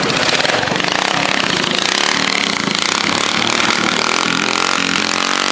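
Loud car engine and exhaust running rough and rapid-firing, with the engine pitch climbing as it revs near the end.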